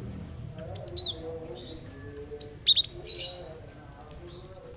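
Cinereous tit (gelatik batu) calling: three short bursts of sharp, high chirping notes, about a second, two and a half seconds and four and a half seconds in.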